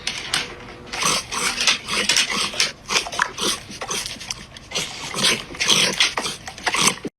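A dog making a string of short, irregular sounds, a few a second.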